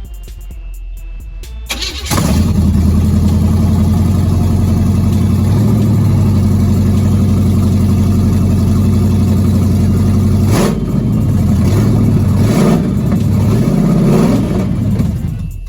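1978 Chevy Nova's engine running steadily, coming in abruptly about two seconds in. Near the end it is revved several times, the pitch rising and falling with each blip.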